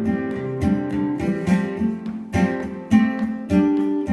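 Acoustic guitar strummed and picked in a steady rhythm, several plucked chords and notes a second.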